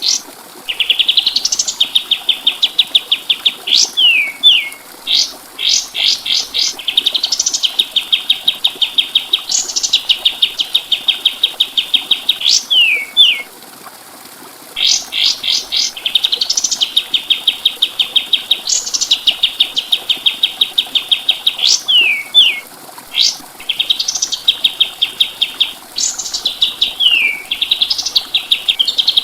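Kapas tembak songbird singing loud phrases, each opening with a rising sweep that runs into a fast trill of high notes, broken by a few quick downward notes. There is a short pause about halfway through.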